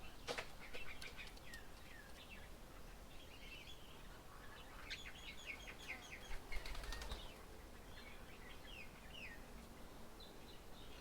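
Small birds at a bird table chirping and calling in short, quick notes, with a flurry of wingbeats about six to seven seconds in as birds fly in or off.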